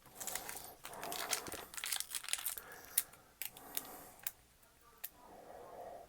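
Foil wrapper of a Pokémon card booster pack crinkling and tearing under the hands, with a run of sharp snaps and crackles.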